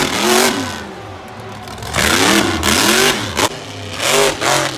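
Monster truck engine revving hard in repeated surges, its pitch climbing and falling three times, over loud engine noise.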